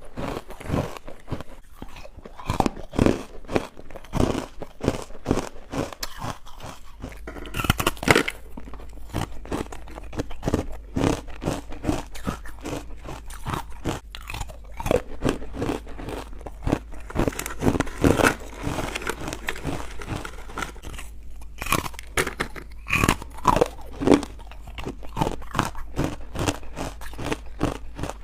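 A person chewing and crunching chalky, powdery carbonated white ice bites up close: a dense, unbroken run of crisp crunches.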